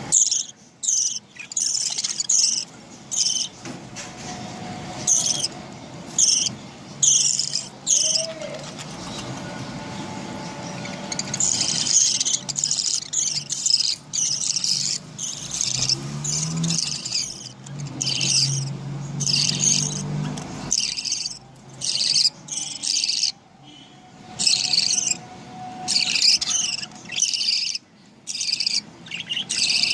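Budgerigars chirping and chattering in quick, high-pitched strings of short calls, with brief pauses between them.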